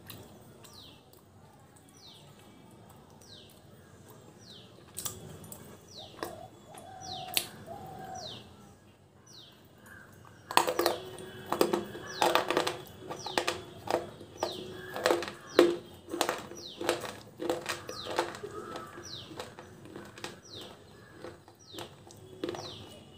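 Crunching and chewing of a hard block of dried clay being eaten. It is fairly quiet at first, then a run of loud, rapid crunches starts about ten seconds in. Behind it a bird repeats a short falling chirp about once a second.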